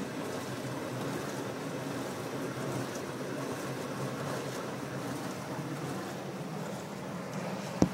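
Metrowealth WP5B countertop dishwasher running, a steady wash noise of water and motor, with a single sharp click near the end.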